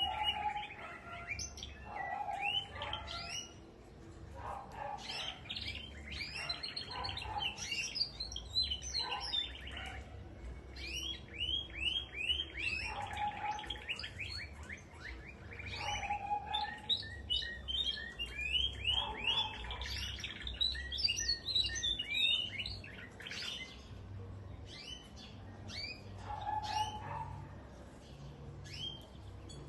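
Many small cage birds chirping and calling together in a dense, overlapping twitter of quick high chirps and trills. A shorter, lower call repeats every few seconds.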